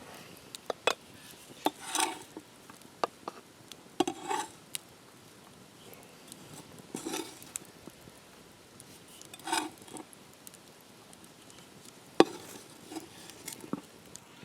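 Metal utensils clinking and scraping against cookware: scattered sharp clicks and a few short scrapes at irregular intervals.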